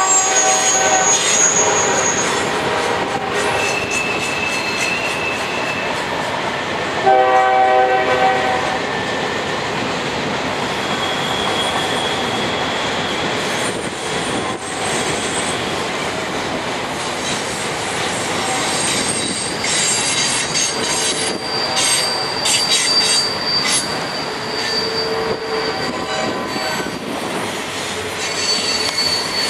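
Union Pacific freight train passing with its locomotive air horn sounding at the start and again in a louder blast about seven seconds in. Its wheels squeal in long, high-pitched tones over the steady rumble and clatter of the rolling cars.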